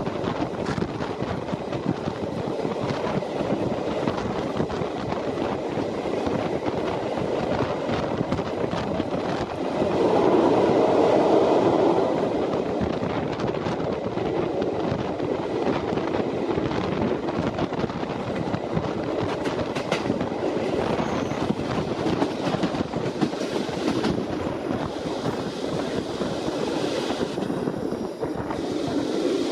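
Passenger train running along the track: a steady rumble of the cars with wheels clicking irregularly over rail joints. The sound swells louder for a couple of seconds about ten seconds in.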